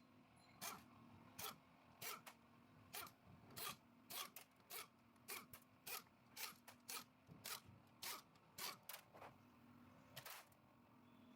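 Faint, quick scraping strokes, about two a second, repeating until about ten and a half seconds in.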